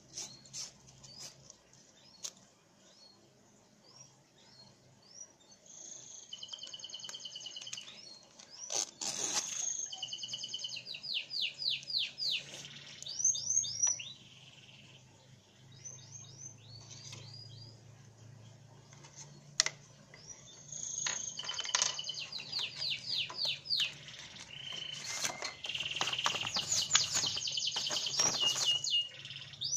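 Birds chirping and singing in two spells, from about six seconds in and again from about twenty seconds in: quick series of high, downward-sweeping notes and short trills. Soft clicks and rustles of the watch, strap and paper being handled lie beneath, with a steady low hum.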